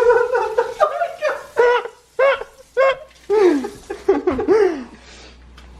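People laughing in repeated bursts, dying away about five seconds in.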